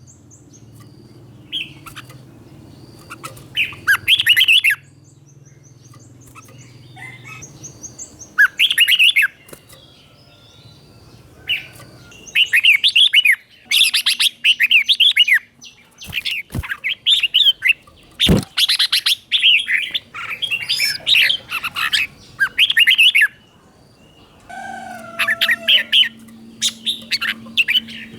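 Red-whiskered bulbul singing: bursts of quick, bubbling whistled phrases, some short and some running several seconds, with brief pauses between. This is the doubled-phrase ('beun') song style, recorded from a tutor bird for young birds to learn. A faint low hum lies underneath, with two sharp clicks in the middle of the stretch.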